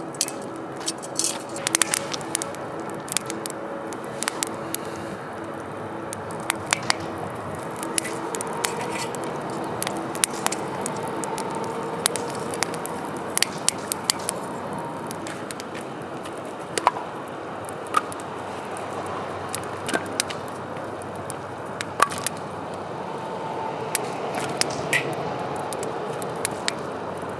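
Wood campfire crackling, with many sharp irregular snaps and pops over a steady hiss.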